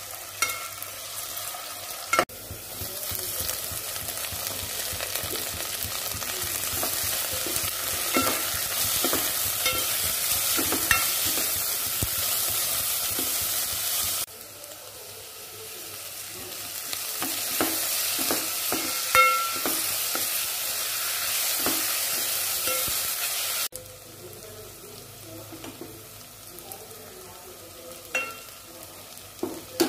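Vegetables frying and sizzling in hot oil in a metal pot while a spoon stirs them, scraping and tapping against the pot. The sizzling comes in suddenly a couple of seconds in, dips sharply about halfway, builds again, and drops away suddenly near the end.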